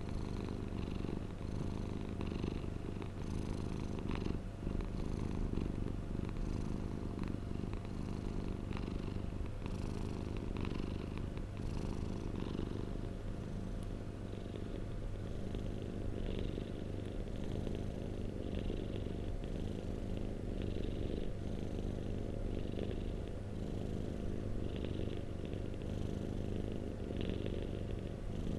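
Domestic cat purring continuously: a steady low rumble with a soft breath-paced rise and fall.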